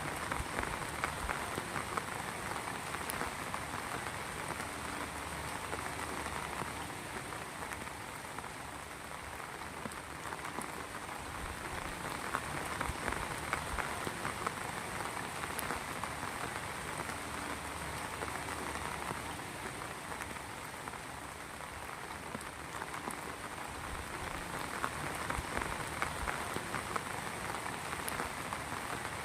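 Heavy rain falling steadily, with many close drops pattering on a surface; the downpour swells and eases slightly every few seconds.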